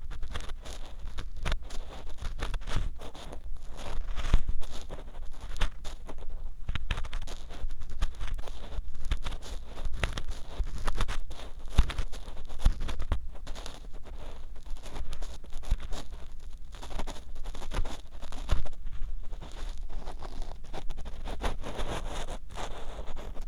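Ear pick scraping and scratching inside the ear of a 3Dio binaural microphone: a close, continuous run of gritty scrapes and sharp little clicks, over a low rumble from contact with the microphone.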